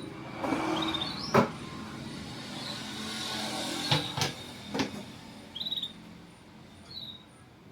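Domestic canary giving short, high chirping trills every second or two, among several sharp knocks and brief rustling noises.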